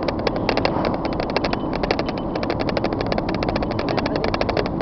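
A vehicle engine running steadily under a rapid, fairly even clicking of about a dozen clicks a second.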